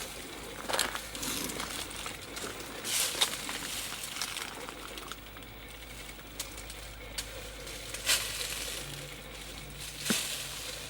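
Footsteps and scuffing over loose hillside soil and brush, with a few sharp thuds of feet or a tool striking the ground. The thuds sound hollow: the ground beneath is undercut and unsound.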